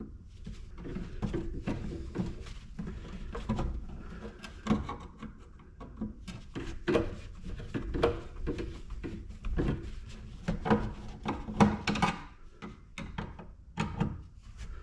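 Hand work on scrap electrical parts on a bench: irregular clicks, knocks and scrapes of parts being handled and worked apart.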